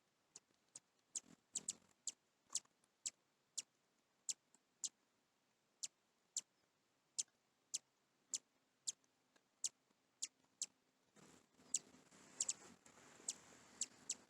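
Small birds feeding in snow: a run of short sharp ticks, irregular at about two a second, with a soft rustling joining in about eleven seconds in.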